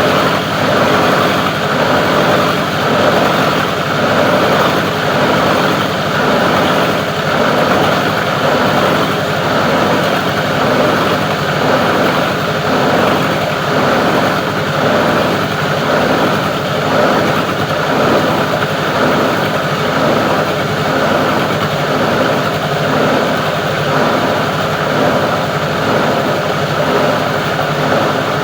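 Plastic recycling grinder machine running steadily, with an even, regular pulse to its noise.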